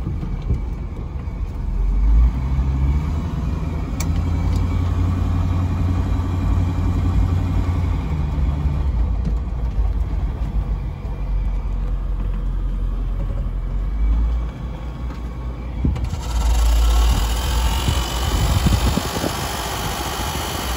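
Ford Mustang's two-barrel 260 V8 running as the car is driven, a steady low rumble that rises and settles a few times. About three-quarters of the way through the sound turns brighter and busier, the engine running with the car stopped.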